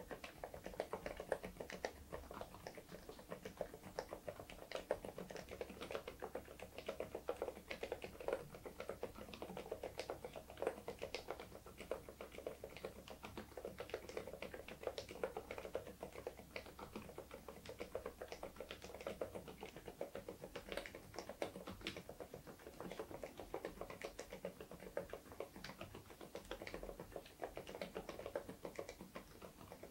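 Continuous typing on an Interpixel IPK104 PRO full-size mechanical keyboard fitted with Leobog Cotton Candy silent linear switches: a steady, unbroken stream of key strokes.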